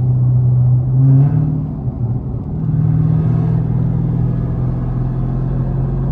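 Dodge Hellcat's supercharged 6.2-litre V8 heard from inside the car under acceleration: its note climbs about a second in, dips briefly, then holds steady at higher revs.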